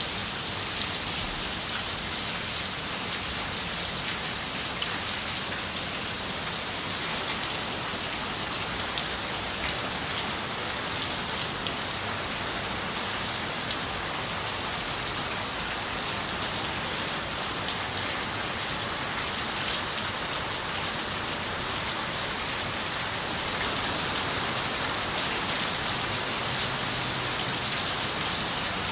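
Steady rain on a window pane, with scattered drops ticking sharply. It grows a little heavier about five seconds before the end.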